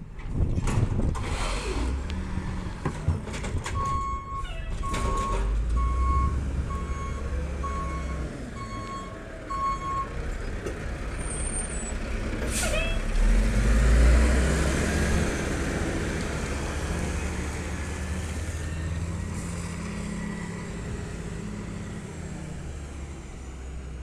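Garbage truck's diesel engine running, with a few sharp knocks in the first seconds and its backup alarm beeping steadily for about six seconds. About halfway through comes a short air-brake hiss, and the engine then revs up before settling back.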